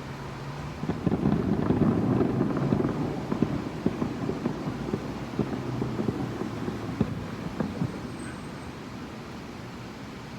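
Fireworks going off in a rapid crackling barrage of many pops. It starts about a second in and thins out near the end. It is heard from indoors through a window, so it sounds muffled.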